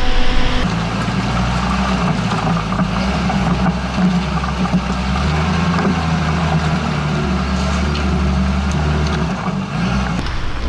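Off-road vehicle's engine running steadily under load as it drives through deep water, with the noise of churning water over the engine hum.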